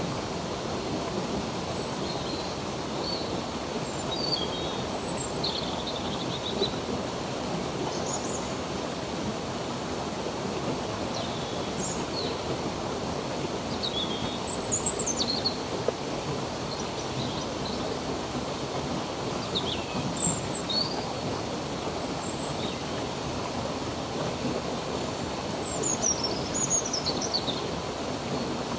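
Running stream water with steady rushing, and small birds chirping now and then over it, with clusters of calls about halfway through and near the end.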